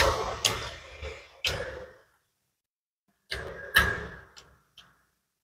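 Close-miked eating sounds: wet chewing and lip smacking of a mouthful of rice and fish, in two short spells with a pause between.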